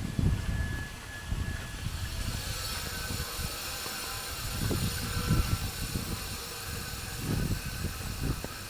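Rain falling, a steady hiss that thickens about two seconds in, over irregular low rumbling from passing traffic or wind on the microphone.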